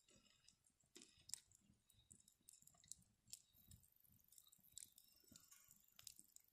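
Faint campfire crackling: scattered small pops and snaps.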